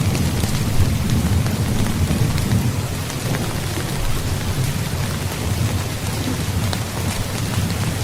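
Heavy rain falling steadily, with scattered sharp drop ticks over a continuous low rumble of thunder. The rumble eases a little after about three seconds.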